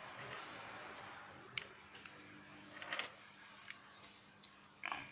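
A few light, sharp clicks and taps spaced out over a faint steady hiss with a low hum, like small objects being handled on a workbench.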